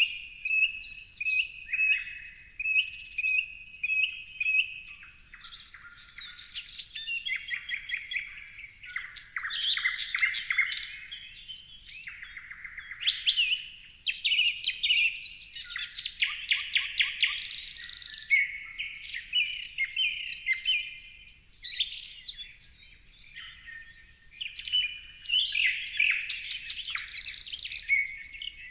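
A chorus of songbirds chirping and trilling, many short calls and quick rising and falling whistles overlapping without a break.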